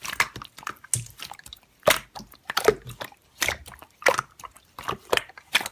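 Slime being squished and pressed by hand, giving a run of irregular wet clicks and pops.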